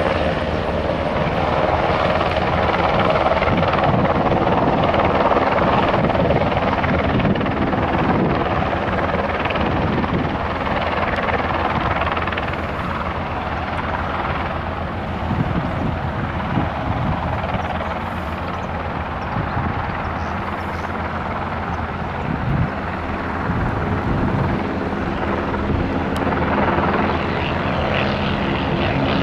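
Helicopter running steadily, its turbine and rotor giving a continuous hum of several even tones under a wash of noise, a little quieter in the middle.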